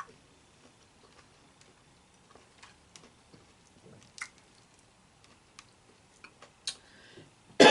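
Quiet eating and mouth sounds close to the microphone: scattered small clicks and smacks, a few sharper ones, and a cough starting right at the end as pineapple juice goes down the wrong way.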